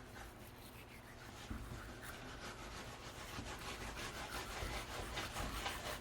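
Knife scraping and rasping against fish and a cutting board in quick repeated strokes, getting busier and louder over the last couple of seconds.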